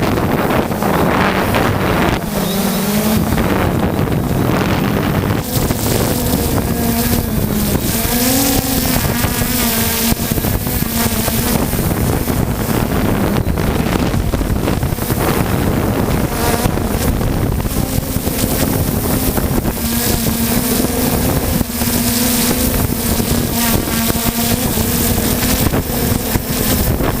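3DR Solo quadcopter's motors and propellers buzzing, the pitch wavering now and then as they work against gusts. Heavy wind buffets the microphone, with a strong rumble throughout.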